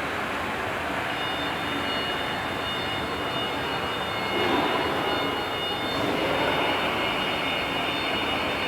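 Wood CNC router running: a steady high-pitched spindle whine over a broad rushing noise, growing a little louder about four and a half seconds in and again at six seconds.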